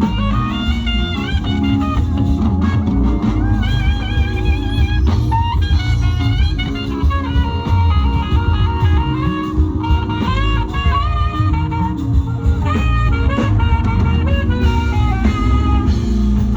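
Live band playing an instrumental groove: bass and drum kit keeping a steady beat, with a lead melody line of held and sliding notes on top.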